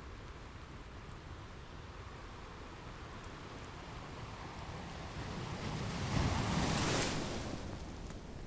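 Ocean surf: a steady low wash of waves, with one wave swelling and breaking about six to seven seconds in, then fading. A few faint crackles from a fireplace sit under it.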